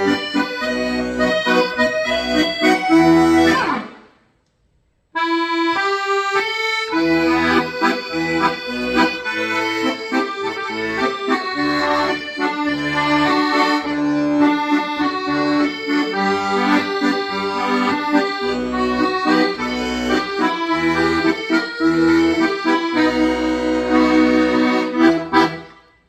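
Accordion playing a tune, melody over a rhythmic bass accompaniment. The playing breaks off about four seconds in, starts again about a second later, and dies away near the end.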